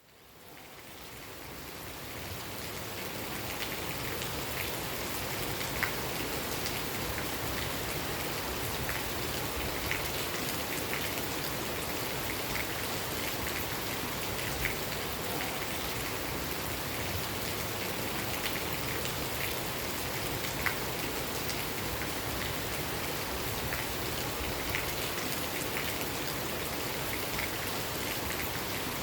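Steady rain falling, with single drops ticking sharply on a surface here and there. It fades in over the first few seconds, then holds even.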